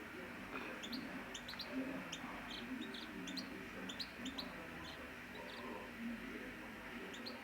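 Canaries chirping: many short, high chirps, several a second, with no song phrase.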